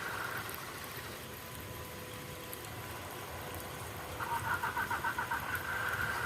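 Small electric motor of an MN78 radio-controlled Jeep Cherokee running with a faint steady whine. About four seconds in, a quick pulsing whir joins it.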